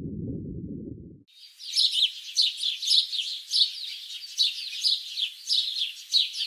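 A low rumbling noise cuts off about a second in, followed by small birds chirping: quick, high, downward-sliding chirps, several overlapping, with a louder chirp about every half second.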